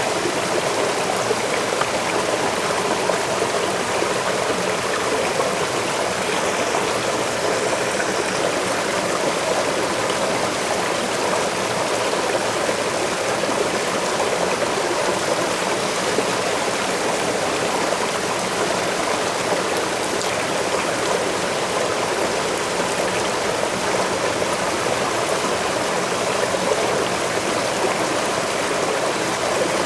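Waterfall: a steady, unbroken rush of falling water with no separate splashes or other events.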